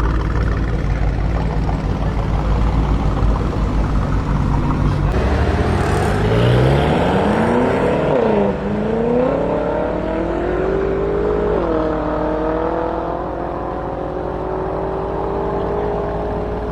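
Alfa Romeo Giulia Quadrifoglio's 2.9-litre twin-turbo V6 with a Ragazzon exhaust, running low and steady, then accelerating hard from a drag-strip launch about five seconds in. The engine note climbs, drops at two upshifts a few seconds apart, then holds and climbs slowly as the car pulls away.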